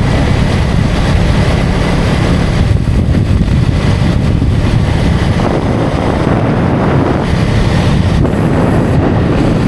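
KTM Duke 250's single-cylinder engine running steadily while the motorcycle is under way, mixed with wind rushing over the microphone.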